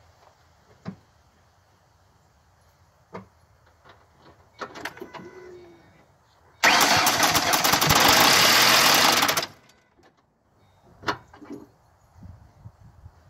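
A 2006 Ford Mustang's engine turning over, loud and close, for about three seconds with a fast ticking texture, then cutting off abruptly; the owner says it cranked long. A few faint clicks come before it.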